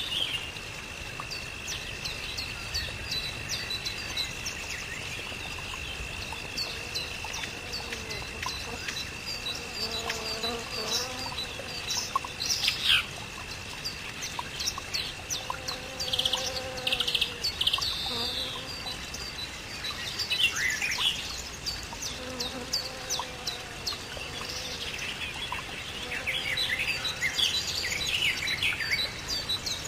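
Outdoor birdsong: many birds chirping and trilling at once. A steady high, insect-like whine runs underneath until about two-thirds of the way through, and a few low, drawn-out calls sound now and then in the second half.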